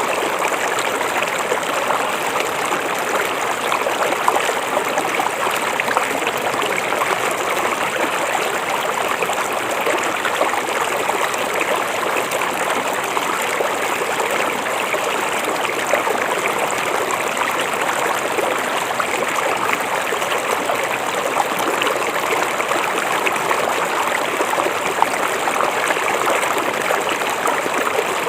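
River water flowing, a steady rush and babble with no change in level.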